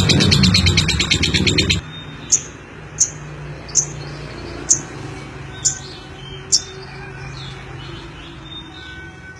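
Lovebird singing: a loud rapid rattling trill that cuts off abruptly about two seconds in, then six short high chirps, each under a second apart.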